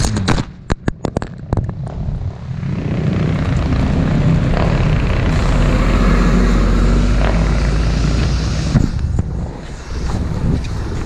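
Motorcycle engine running steadily, preceded by a quick run of sharp knocks in the first two seconds.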